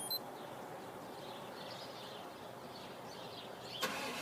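Quiet outdoor background noise with a few faint bird chirps. A short sudden noise comes near the end.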